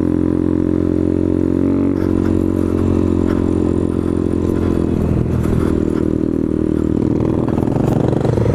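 Motorcycle engine running under way at a fairly steady speed. Its note changes about two seconds in and again around five seconds, then rises near the end, with a few light clattering clicks over it.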